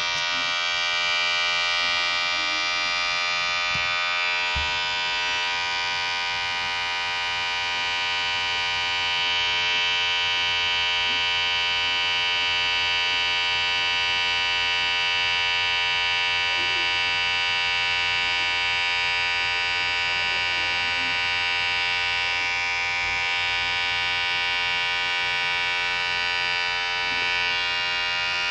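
Electric hair clipper running steadily, a constant vibrating buzz that holds one pitch.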